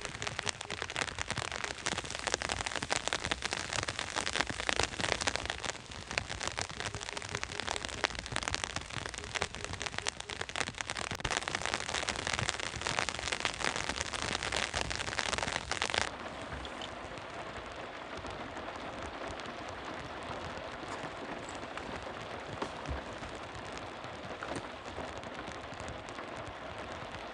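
Rain falling, a dense patter of many sharp drop hits. About 16 s in it changes suddenly to a softer, steadier hiss with less treble.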